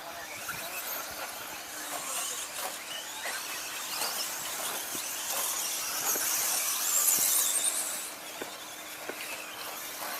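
Several RC stadium trucks racing on the track, their motors whining and tyres squealing as they pass. The sound swells to its loudest about six to eight seconds in, then fades back.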